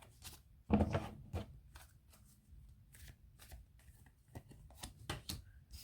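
Tarot cards being handled and dealt: a series of short papery flicks and slaps as cards are drawn from the deck and laid down, with a louder cluster about a second in.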